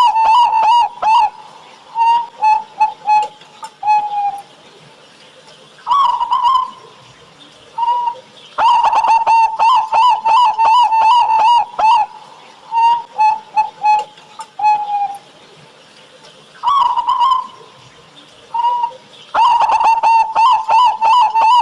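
Zebra dove (perkutut) cooing in repeated phrases. Each phrase is a quick run of short coos, followed by a few spaced notes and a lower, drawn-out closing note, with brief pauses between phrases.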